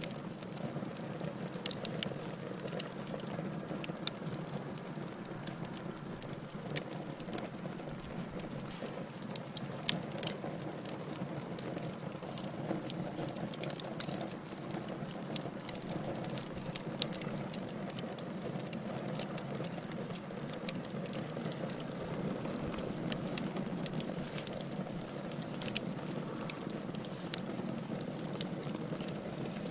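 Wood fire burning in a fireplace: steady crackling, with frequent sharp pops and snaps over a low, even rush of flame.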